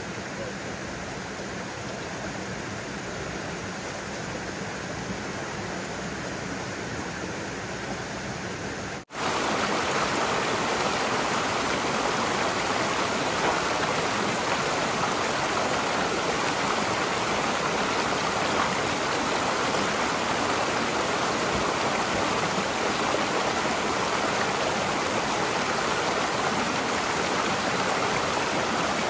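Rushing water, a steady noise with no speech; it jumps louder after a brief break about nine seconds in and then stays even.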